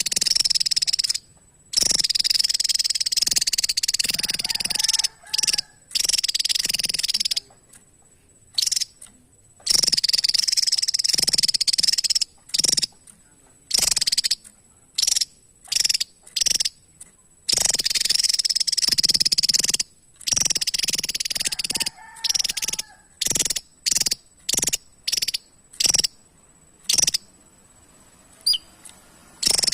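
Javan tesia calling: harsh, noisy calls in bursts, some long ones of two to three seconds and between them runs of short, quick notes separated by brief silences.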